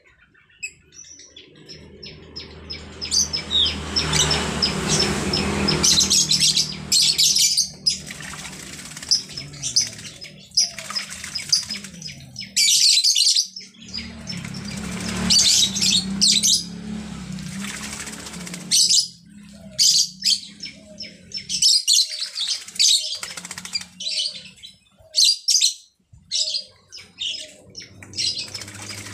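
Pet starling bathing, beating its wings in the water in repeated splashing bursts, with short chirps among them.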